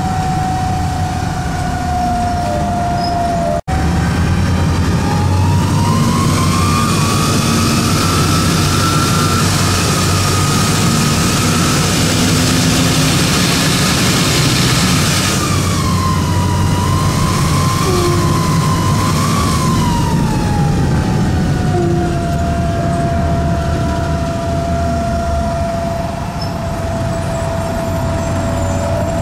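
Detroit Diesel Series 50 diesel engine of a 2002 Nova Bus RTS running under a loud whine that climbs in pitch as the bus accelerates, holds, then sinks back to a steady tone, which the uploader puts down to a bad turbocharger. The sound cuts out for an instant about four seconds in.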